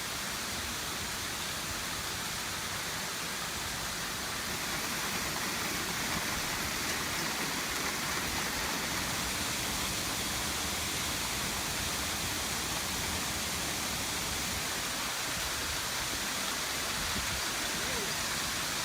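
Intense hailstorm with rain: a dense, steady hiss of falling hail and rain that does not change.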